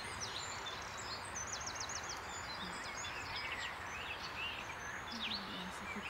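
Small songbirds calling and chirping in woodland over a steady background hiss, with a quick run of about six high repeated notes a little past two seconds in.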